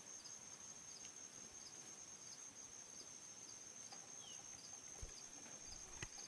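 Near silence with faint insects, likely crickets: a steady high-pitched trill and soft chirps about twice a second.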